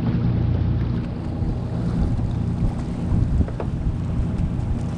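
Wind buffeting the microphone over a steady low rumble, with a few faint short clicks.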